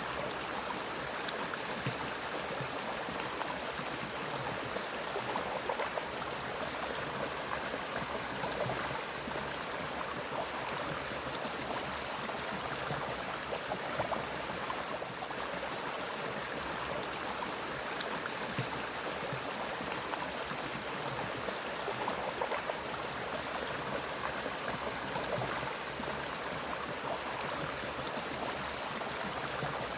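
Mountain stream flowing steadily over rocks, an even rushing and gurgling with no breaks. A thin, steady high-pitched tone runs under it throughout.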